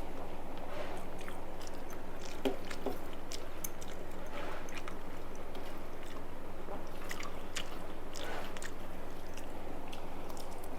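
Close-miked chewing and biting of a mouthful of rice and fried food, with scattered small crunches and clicks, over a steady low hum.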